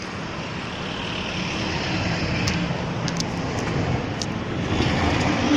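Premier Padmini S1 car engine running, heard through its exhaust: a steady note that grows louder toward the end.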